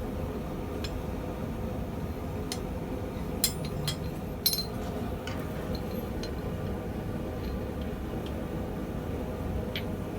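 Steady low rumble of a propane gas forge burner, with a dozen or so light metallic clinks of steel stock and tongs being handled.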